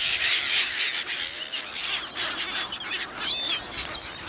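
A flock of silver gulls squawking over one another, many short high-pitched calls overlapping as the birds compete for food being handed out.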